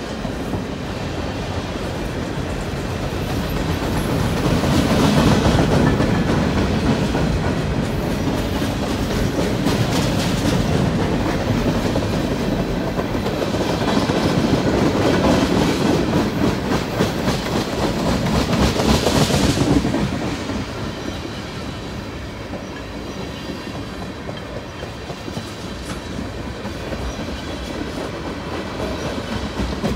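Loaded freight cars of a CN manifest train, covered grain hoppers and tank cars, rolling past with a continuous rumble of steel wheels on the rails. The sound swells several times and drops off somewhat past the middle.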